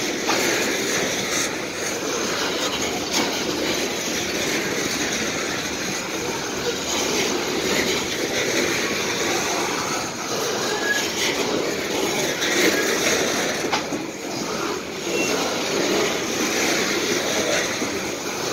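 Open-top coal hopper cars of a long freight train rolling past: a steady rumble and rattle of steel wheels on rail, with occasional clacks at rail joints and a couple of brief wheel squeals.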